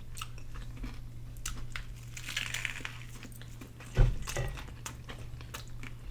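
Close-up eating sounds: crunching and chewing of crispy fried chicken, with a crinkle of paper or wrapper and one low thump about four seconds in, over a steady low hum.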